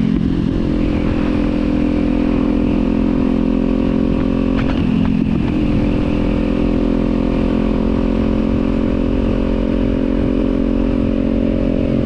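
Kawasaki motorcycle engine running at a steady speed, with a brief dip in engine pitch about five seconds in.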